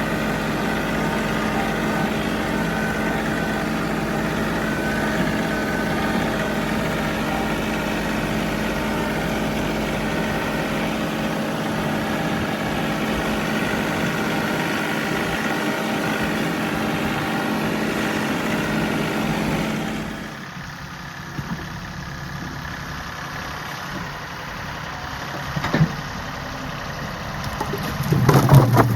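John Deere 3038E compact tractor's three-cylinder diesel engine running steadily. About two-thirds of the way through, the sound drops abruptly to a quieter engine hum. A couple of short thumps follow near the end.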